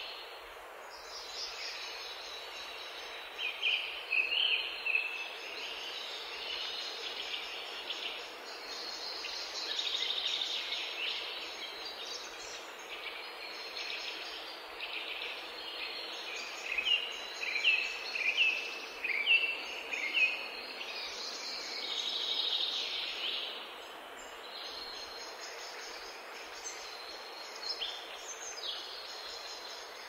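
Birds chirping and singing in bursts of quick, short notes over a steady outdoor hiss.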